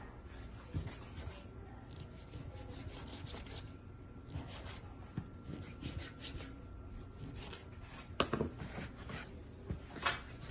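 Pizza dough being divided and shaped by hand on a floured work surface: soft rubbing and scraping strokes, with a sharper knock about eight seconds in.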